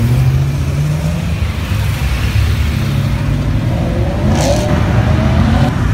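Car engines running at low revs as cars drive past, with a short higher-pitched burst of sound about four and a half seconds in.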